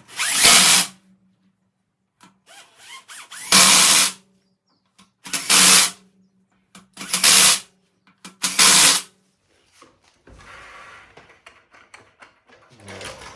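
Impact wrench tightening a wheel's lug bolts: five short bursts of the gun, about half a second each, spaced a second or two apart, one bolt after another.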